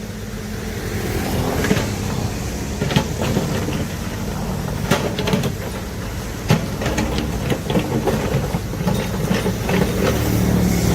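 A large excavator's diesel engine running steadily, with irregular sharp clanks and knocks, such as a bucket and rock striking, scattered through, the strongest about halfway in.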